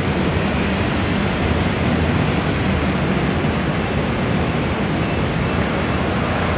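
Steady roar of dense motor scooter and motorbike traffic, many small engines blending into one continuous noise.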